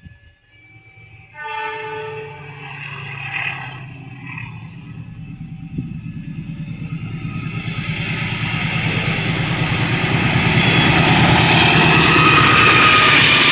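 A train horn sounds for about three and a half seconds, then a train approaches, its rumble growing steadily louder with a fast, regular clatter of wheels on the rails.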